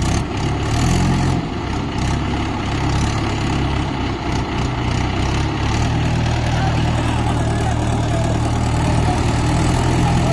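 Diesel tractor engine running, its speed shifting in the first couple of seconds and then holding steady.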